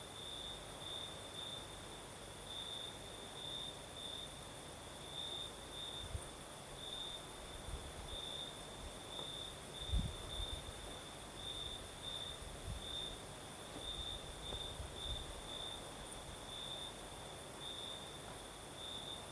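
Crickets chirping at night: a steady, high-pitched pulsing trill that keeps an even rhythm. Low rumbles of night breeze on the microphone come and go in the middle, with the strongest gust about ten seconds in.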